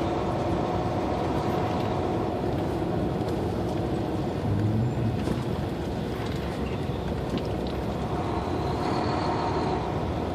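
Semi truck's diesel engine running steadily with road noise as the truck rolls slowly through a truck stop lot, a brief low swell about halfway through.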